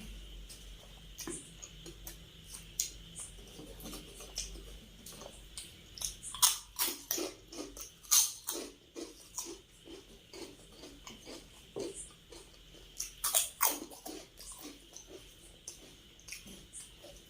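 Close-miked chewing of food: a steady run of short mouth clicks and bites, with two louder stretches of rapid chewing, about six seconds in and again around thirteen seconds.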